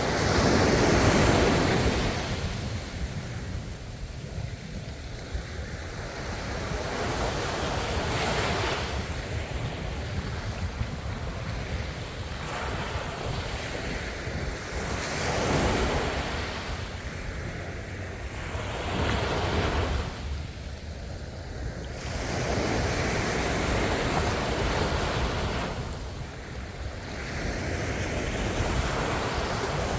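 Ocean waves breaking on a shore, each surge swelling and washing back every few seconds over a constant low rumble of surf, with some wind on the microphone.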